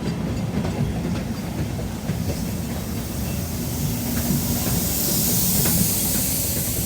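Long Island Rail Road train moving slowly past, with a steady rumble and wheels clicking over the rail joints; a hiss builds from about two and a half seconds in and is loudest near the end.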